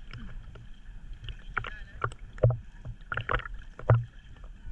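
Water slapping against a small boat's hull in irregular thumps, two of them louder about two and a half and four seconds in, over a constant low hum.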